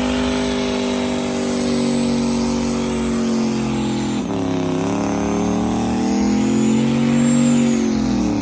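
Truck engine held at high revs. It stays near one pitch, dips and jumps briefly about four seconds in, rises a little, then begins to drop near the end as the throttle comes off.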